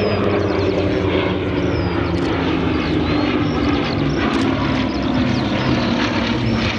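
Bristol Blenheim Mk IF's twin Bristol Mercury radial engines running steadily, a loud propeller drone whose pitch sags slightly a second or two in.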